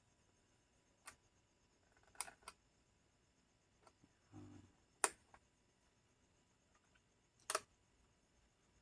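Near silence broken by a few sharp, irregularly spaced clicks, the two loudest about five and seven and a half seconds in.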